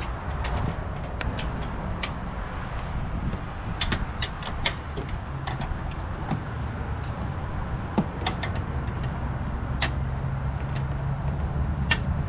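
Scattered clicks and knocks of hand tools and parts during front strut reassembly, over a steady low hum.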